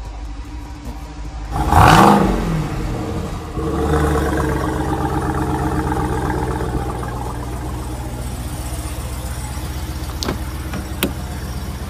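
Jeep Grand Cherokee SRT8's 6.4-litre HEMI V8 running, with a quick rev about two seconds in that falls back, then a steady deep idle from the exhaust.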